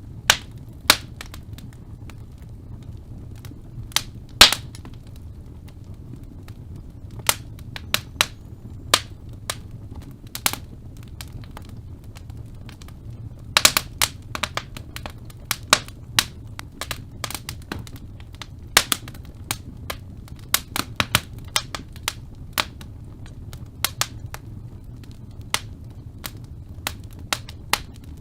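Birch logs burning in a fireplace, crackling with irregular sharp pops, about one or two a second, over a steady low rumble of the flames. There is a quick cluster of loud pops about halfway through.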